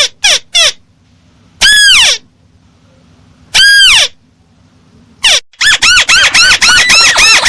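Crake (burung tikusan) lure call played loudly: a quick run of short arched notes, then two longer drawn-out notes about two seconds apart, then the quick run starts again about five seconds in.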